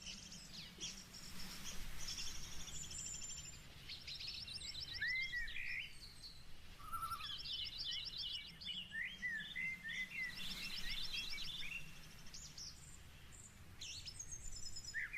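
Several songbirds singing: quick chirps, swooping notes and rapid trills overlapping, over a faint low background hiss.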